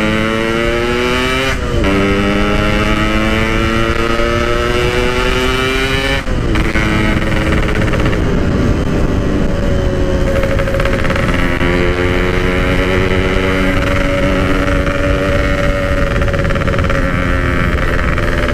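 Yamaha RX-King two-stroke single-cylinder engine under way, through a stock-style Packing Power exhaust: it climbs in pitch through a gear, upshifts about one and a half seconds in, climbs again, upshifts again about six seconds in, then cruises at a fairly steady pitch.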